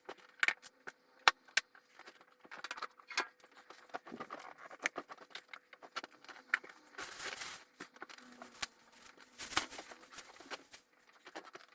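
Belongings being handled and moved: scattered knocks and clicks, with several short bursts of rustling.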